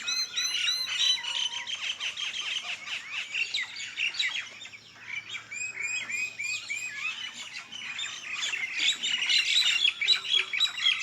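Many small birds chirping and calling at once in a dense, overlapping chorus of short, quickly repeated high notes.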